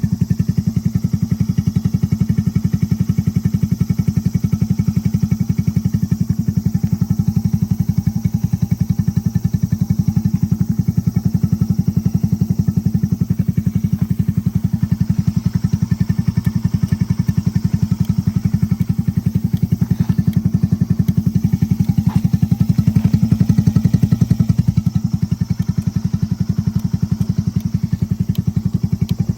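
Honda Jorcub's single-cylinder four-stroke engine, bored up to 81cc, idling steadily through an aftermarket muffler, a steady even exhaust pulse that swells slightly about two-thirds of the way in.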